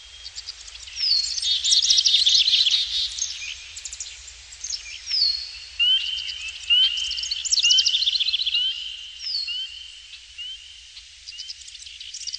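Birds calling: high chirps and trills, a short falling note that comes back every few seconds, and a run of quick rising chirps.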